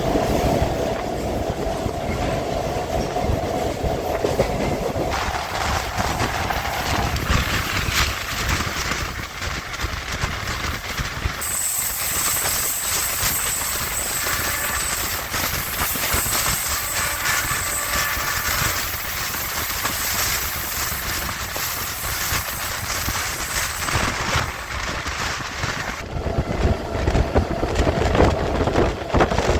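MEMU electric train running on the rails, wheels clattering over the rail joints with a steady rumble. A steady whine is heard at the start and again near the end.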